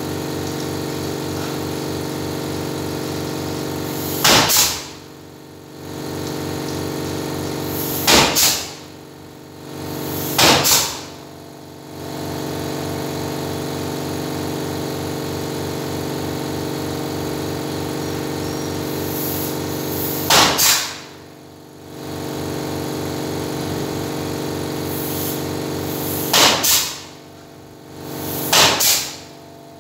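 A machine hums steadily with a fast, even pulse. It is broken six times by short, loud hissing or clattering bursts, and after each one the hum drops away for about a second before coming back.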